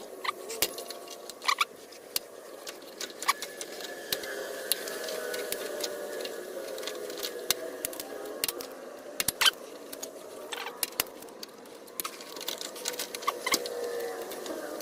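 Irregular metallic clicks and clinks of a socket and hand tools working on the mower's fasteners, with a faint wavering tone in the background.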